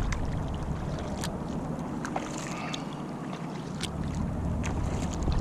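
Wind rumbling on the microphone of a kayak on the water, easing about halfway through and building again, with scattered sharp clicks.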